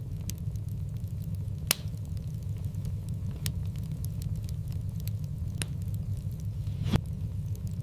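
Wood fire in a fireplace crackling over a steady low rumble of burning, with frequent small snaps and a few sharper pops, the loudest near the end.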